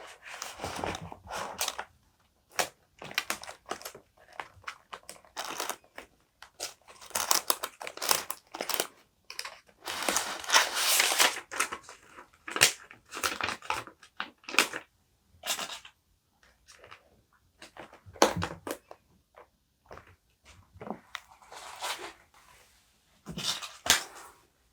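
Paper and stickers being handled for journaling: irregular rustling and crinkling with short taps, and a longer stretch of rustling about ten seconds in.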